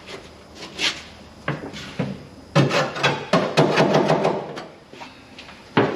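Loose dash parts being worked free and pulled out of an old pickup's cab: scattered knocks, a dense stretch of clattering and rattling in the middle, and a sharp knock near the end.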